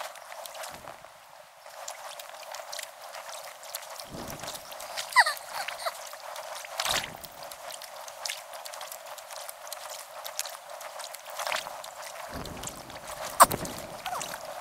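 Kayak paddling on a river: paddle splashes and dripping water over a steady hiss of moving water, with scattered small clicks. One sharp knock near the end.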